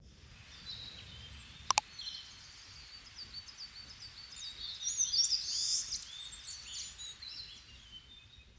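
Wild birds singing and chirping, many short overlapping calls that grow busiest around the middle. A sharp double click sounds a little under two seconds in.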